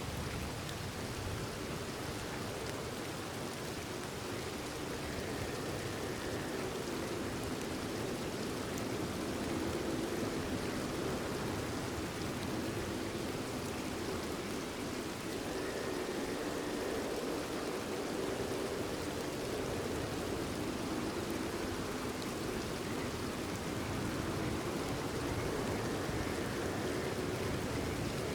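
Steady rain falling, with a few faint frog calls.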